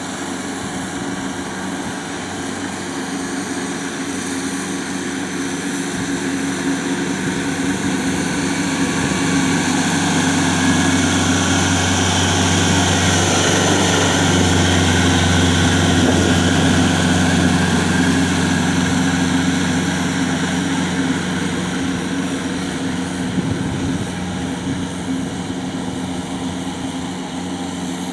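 Tractor's diesel engine running steadily, a low drone that grows louder toward the middle and fades again toward the end as the tractor draws near and moves off.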